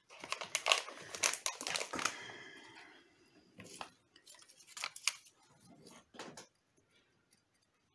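Crisp clicking and scraping of small hard objects being handled, dense for about two seconds, then a few scattered clicks.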